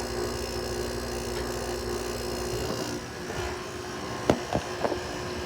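Haier 5,200 BTU window air conditioner running with a steady hum. About two and a half seconds in, the low part of the hum drops away. A few sharp clicks or knocks follow near the end.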